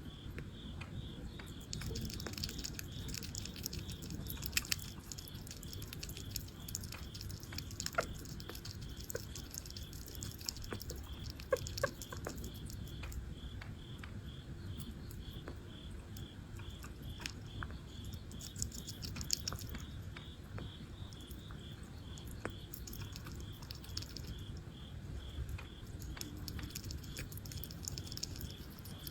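A sugar glider chewing and crunching a snack, with scattered crisp clicks and crackles. A faint high chirp repeats steadily about twice a second behind it.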